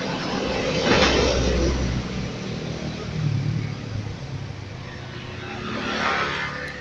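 A passing motor vehicle: a rumble that swells and fades about a second in, with a second, weaker pass near the end.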